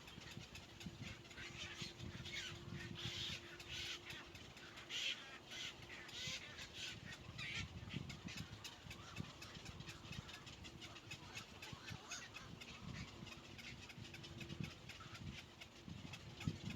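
Harsh, raspy bird calls repeated about twice a second, strongest over the first half, then fainter and more scattered.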